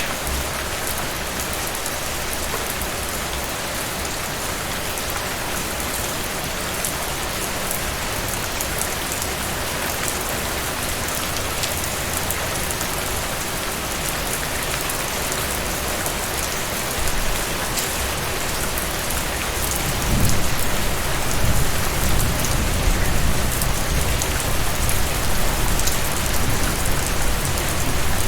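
Heavy rain falling steadily, with a dense hiss of drops pattering on surfaces. About two-thirds of the way in, a low rumble swells underneath and the rain grows louder.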